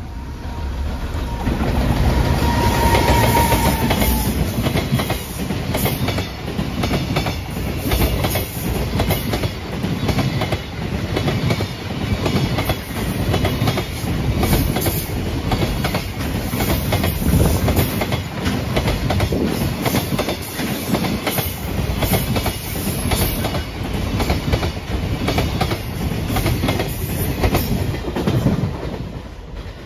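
Freight container train passing close by: Koki 106 container wagons rolling past with a steady run of wheel knocks over the rail joints (clickety-clack). The sound gets loud within the first two seconds, a steady tone sounds over the first few seconds, and the noise falls away near the end as the last wagons go by.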